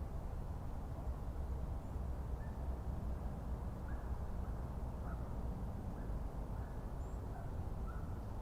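Forest ambience: a steady low rumble with a string of short, faint bird calls, most of them from about two seconds in onward.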